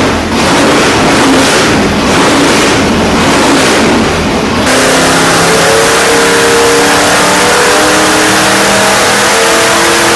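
A high-performance car engine running loud and revving. About halfway through, the rough roar cuts abruptly to a steadier sound of held tones that shift in pitch.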